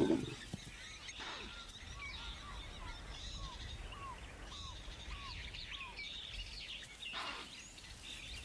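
Wild birds calling over faint outdoor ambience: one repeats a short downward-slurred note about twice a second, with higher chirps from others. A brief low sound stands out at the very start.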